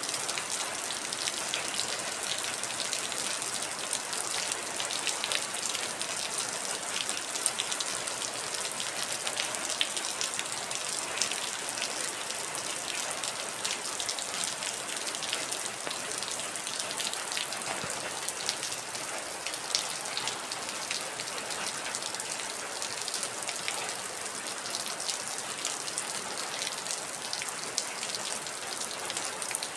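Heavy rain falling steadily, a dense hiss with many sharp individual drop taps.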